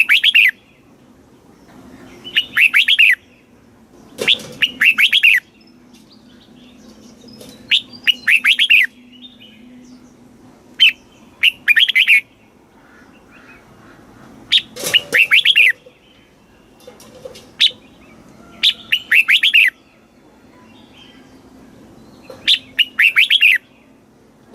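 Red-whiskered bulbul singing: short, bright phrases of quick notes repeated every two to three seconds, with a faint low hum beneath.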